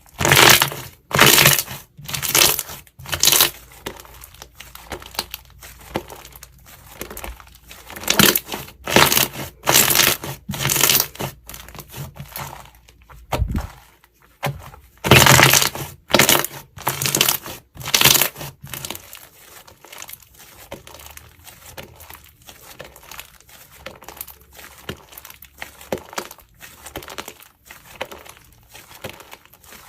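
Slime being squeezed and pressed by hand, making crackling, crunching sounds in runs of loud presses about once a second, with softer crackles between.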